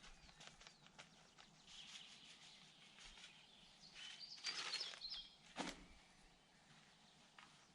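Quiet outdoor ambience with faint bird chirps, loudest about four to five seconds in, and a few soft rustling clicks, with one sharper tap shortly after the chirps.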